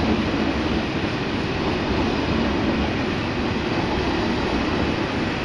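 TGV high-speed trainset running past along the platform at speed: a steady, unbroken rumble and rush of steel wheels on the rails.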